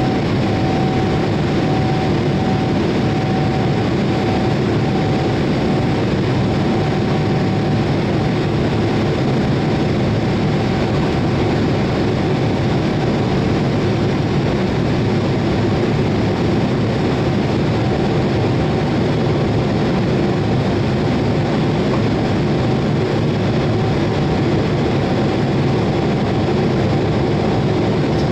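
Boeing 787-8's Rolls-Royce engines and airflow making a loud, steady jet noise, with a thin steady tone that fades out about eight seconds in.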